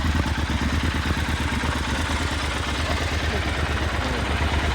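Triumph Scrambler motorcycle engine idling steadily through an aftermarket Arrow exhaust, an even low pulsing exhaust note.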